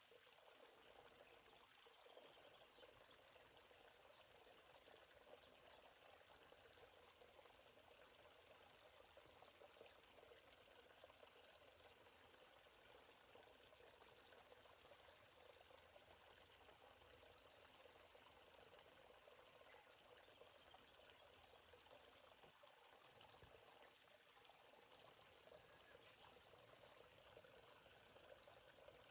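Steady high-pitched insect chorus, like crickets, over the soft babble of a forest stream.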